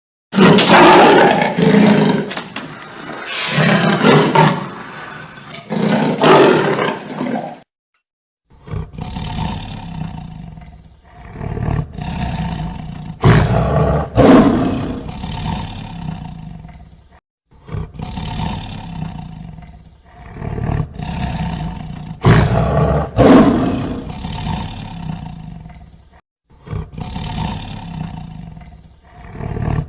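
Lion roaring again and again: loud, rough roars that fade off into lower grunting, broken by three short silent breaks.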